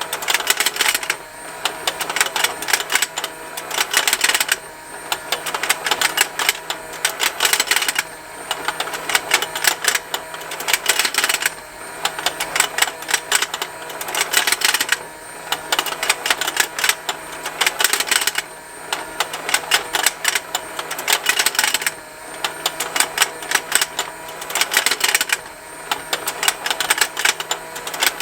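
Rotating plastic fishing-game toy running: its small motor turns the pond with a continuous rapid plastic ticking and the fish snapping open and shut. The clicking swells and briefly dips in a cycle about every three and a half seconds, over a faint steady motor hum.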